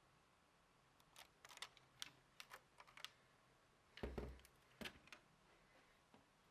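Faint sharp plastic clicks and rattles of Lego parts being handled, a dozen or so over about four seconds, with one heavier knock about four seconds in.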